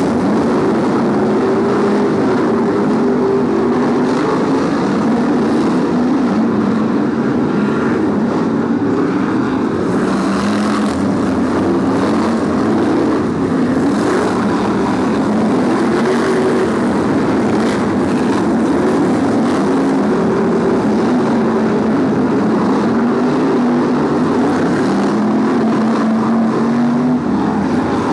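BriSCA F1 stock cars' V8 engines racing, several cars at once, the engine pitch rising and falling again and again as they accelerate and ease off around the oval.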